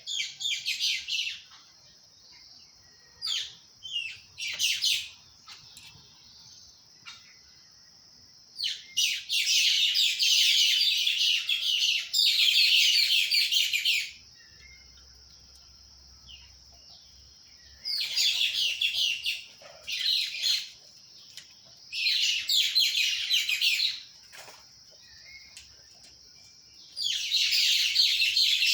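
Bird song: bursts of rapid, dense high-pitched chattering, each lasting a few seconds, with a few short single calls at the start and pauses between phrases. A steady high-pitched tone runs underneath throughout.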